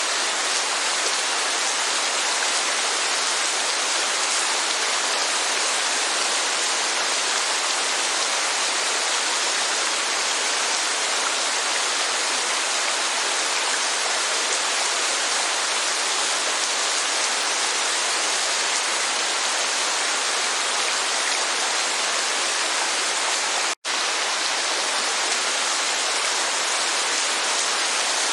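Steady rain and rushing waterfall water: an even, unbroken hiss with no separate drops standing out. It cuts out for an instant near the end.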